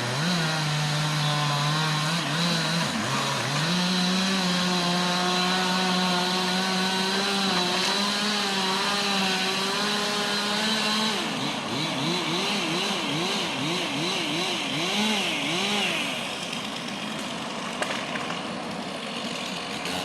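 Petrol chainsaw running at high revs, holding a steady pitch for about ten seconds while trimming limbs. Then it is revved up and down in quick succession for several seconds before dropping back.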